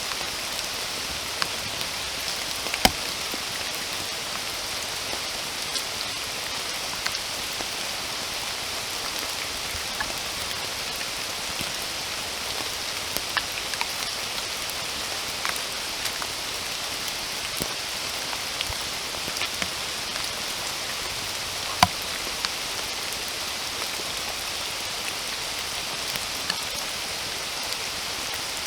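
Steady rain falling, with scattered individual drops ticking close by. Two sharper, louder drop hits stand out, one about three seconds in and one about three-quarters of the way through.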